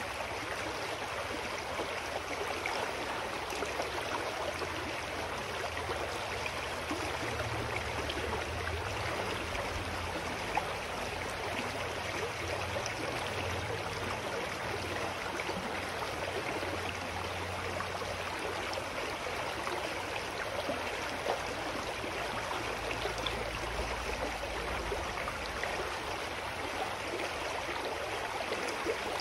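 Clear mountain stream flowing over rocks: a steady rushing and babbling of water with small splashes.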